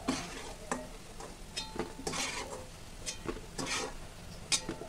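Jaggery and wheat-flour balls sizzling in hot oil in a kadhai, with a perforated steel slotted spoon scraping and clicking against the pan as the balls are scooped out.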